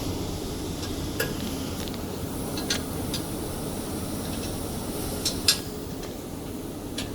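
Scattered sharp metallic clinks and taps of hand tools on the steel fittings of a band saw cutting machine as its guard parts are tightened. The loudest comes about five and a half seconds in, over a steady low hum.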